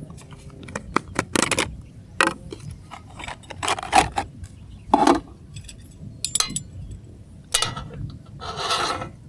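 Irregular clicks, clinks and scrapes of gear being handled, with a longer scraping rustle near the end.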